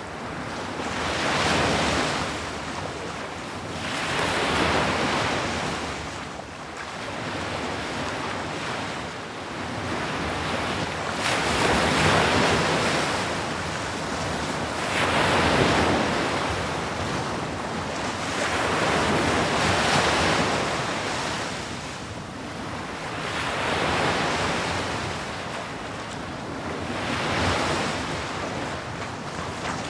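Sea waves breaking on the shore, the surf swelling and drawing back in slow surges about every three to four seconds.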